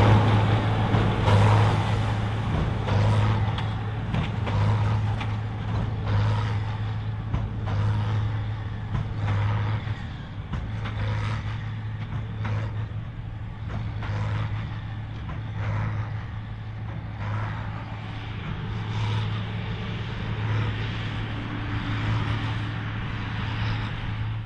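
John Deere 4955 tractor's six-cylinder diesel running hard under load as it pulls a Krone BigPack big baler: a steady low drone with repeated short knocks from the baler's working strokes.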